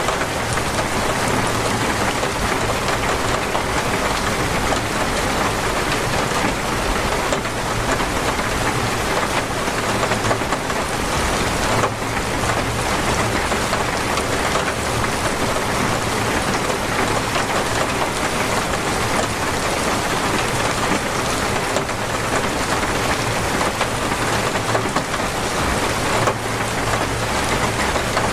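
Heavy rain falling steadily, a dense even hiss of rain beating on surfaces.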